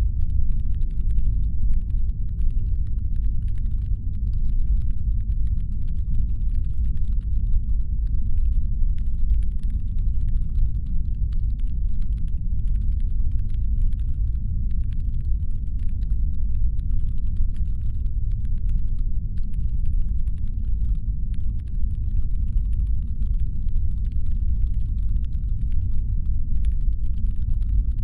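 Constant deep brown-noise rumble, made as a spaceship's engine hum, steady and unchanging. Faint, irregular light clicking runs over it.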